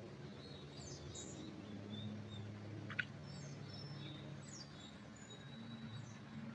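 Small forest birds chirping: scattered thin, high calls and short down-slurred notes, with one sharper chip about three seconds in. A low steady hum sits underneath.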